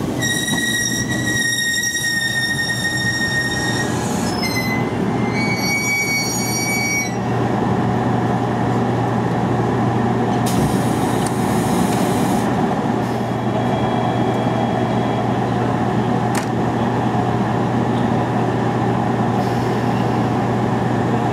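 Electric multiple-unit train braking to a stop, its brakes squealing with a high steady whine in two stretches over the first seven seconds. The halted train then hums steadily, with a short hiss of air about ten seconds in and a sharp click later.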